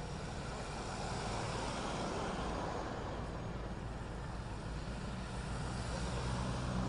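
Sikorsky CH-53 heavy-lift helicopter running, a steady drone of rotor and turbine noise that grows louder near the end.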